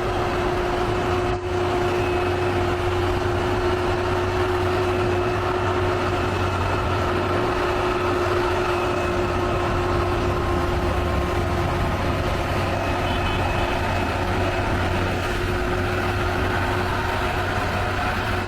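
Heavy diesel truck engines running steadily as the tractor units haul a heavy load through a hairpin bend, with a constant low hum.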